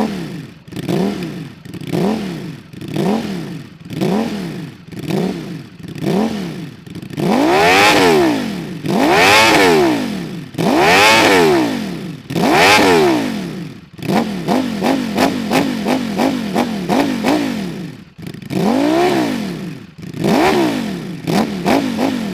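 Ducati Streetfighter V4's V4 engine revved through an Akrapovic slip-on exhaust with its baffles in. It starts with a run of short throttle blips about once a second, then four bigger revs that climb and fall back, then quick light blips broken by two more revs.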